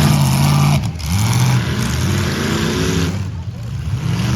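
Demolition derby car engines running and revving, the pitch rising and falling, over a steady noisy background.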